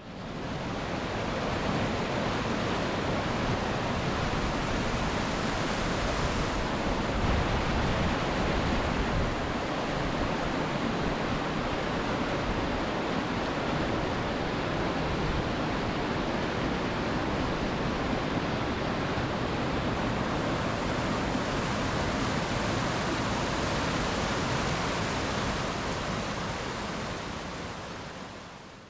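Steady rushing noise with no pitch or rhythm, fading in at the start and out near the end.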